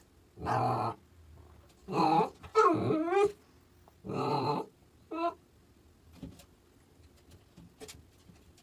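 A dog growling in about five short bouts. The one about three seconds in rises into a wavering, higher-pitched call.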